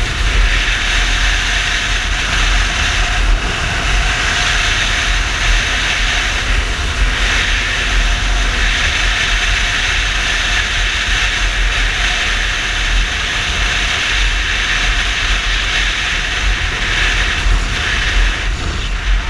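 Wind rushing over the microphone with a Yamaha Fazer 250 motorcycle's single-cylinder engine running beneath it, riding steadily at speed.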